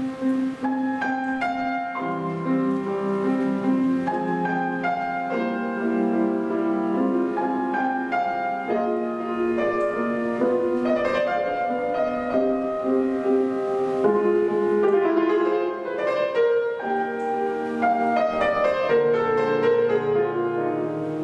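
Solo acoustic piano playing a classical piece: a melody over a steady, flowing accompaniment of repeated notes, without a break.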